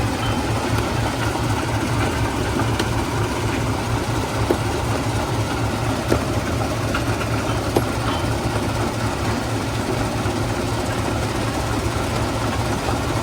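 Stone crushing plant running steadily with a low mechanical rumble, and a few sharp knocks of rock striking metal standing out partway through.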